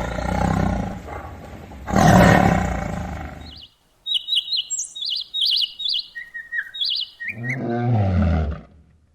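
Animal calls in quick succession: two loud roars in the first few seconds, then a quick run of short, high chirping calls, then one lower pitched call near the end that dips and rises.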